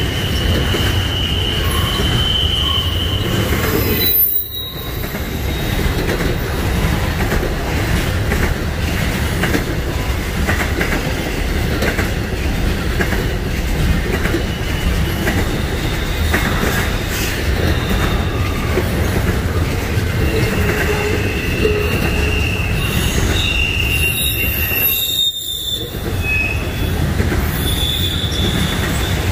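Freight train cars rolling past close by with a steady heavy rumble. Wheels squeal in high thin tones near the start and again in the last third.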